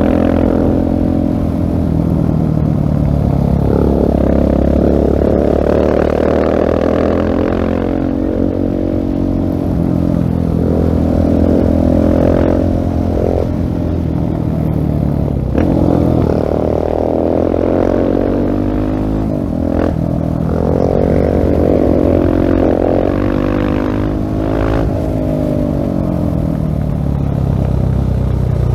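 Husqvarna 701 Supermoto's single-cylinder engine through a LeoVince full-system exhaust, ridden hard: revs climb and drop again and again through the gears, with a few sharp clicks along the way.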